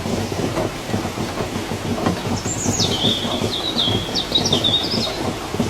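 Heavy rain falling steadily as a dense, low crackling patter. About halfway through, a bird gives a high whistled call: a note dropping in pitch, then a quick run of chirps.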